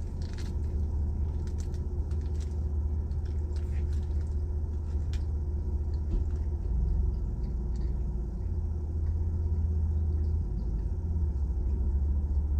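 Car engine idling, heard from inside the cabin as a low steady rumble, with a few faint clicks over it.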